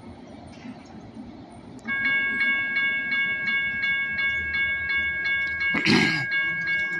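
A rail warning bell starts ringing about two seconds in, struck rapidly about four to five times a second, over the low rumble of the light rail setting. A short loud burst of noise cuts in near the end.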